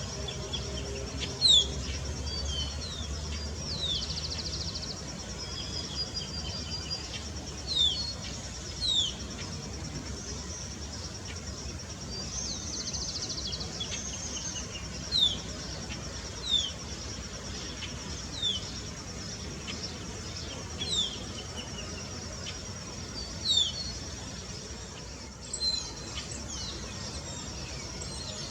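A small bird repeating short, high, sharply falling chirps every second or two, with a steady high hum underneath and a couple of brief buzzy notes.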